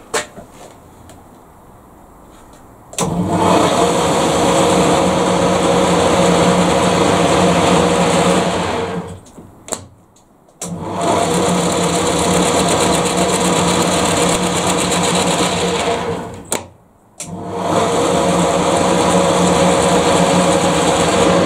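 Lathe motor and gearbox running, switched on about three seconds in, stopped and restarted twice, with a steady hum and whine each time. After the repair to its drive, it sounds like it should.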